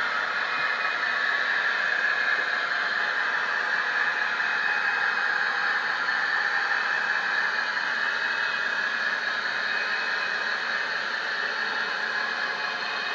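Model diesel locomotive with a DCC sound decoder running, its engine sound played steadily through the locomotive's small onboard speaker.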